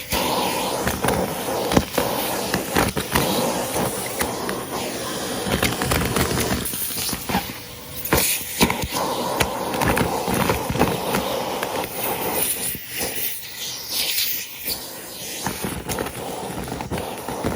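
Henry cylinder vacuum cleaner running, with a steady motor drone and a stream of clicks and crackles as crunchy debris is sucked up the hose.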